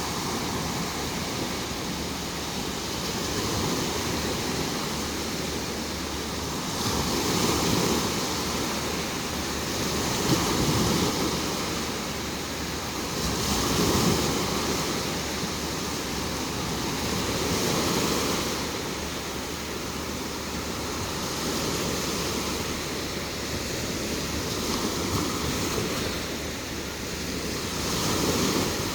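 Sea surf breaking and washing up a sandy beach, the rush of water swelling and falling back every few seconds.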